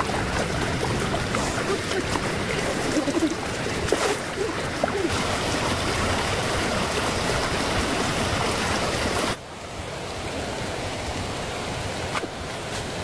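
Steady rushing water, dropping abruptly to a quieter level about nine seconds in.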